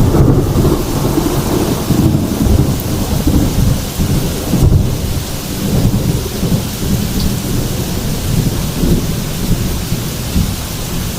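Heavy thunderstorm: steady rain with deep, continuous rolling thunder rumbling throughout.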